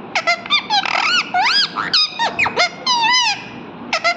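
Parrot calling: a quick run of squeaky chirps and whistled notes, each bending up and down in pitch, one after another.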